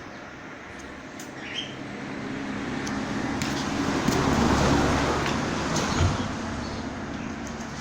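A road vehicle passing by: a broad engine-and-tyre rumble that swells to a peak about four to five seconds in, then fades away.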